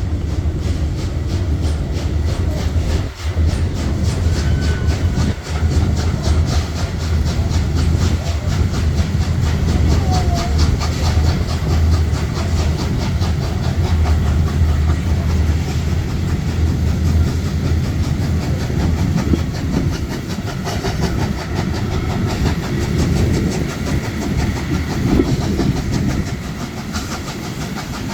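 Historic passenger train running along the track: a loud, steady low rumble with a dense clatter of wheels over the rails.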